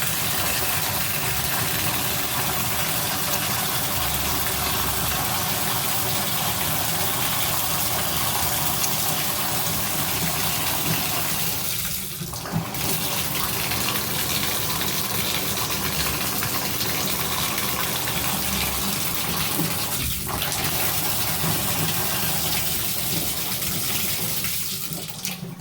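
Water running steadily from a Delta shower valve, an even rushing hiss with two brief dips in flow, then fading down near the end.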